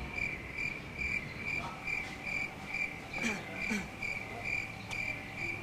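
A cricket chirping steadily, a short high-pitched chirp repeated about two to three times a second.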